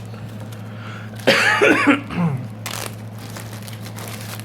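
A man's brief non-word vocal sound lasting under a second, like a cough or grunt, over a steady low electrical hum; a short click follows about a second later.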